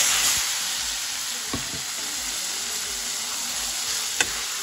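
Chopped meat and onion sizzling loudly in hot oil in a wok, just after being tipped in, with a steady hiss that eases a little. A metal spatula clicks against the pan a couple of times as the food is stirred.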